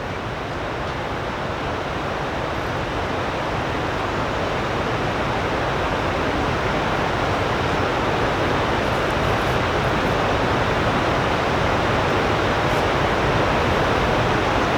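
A steady rushing noise that grows slowly louder.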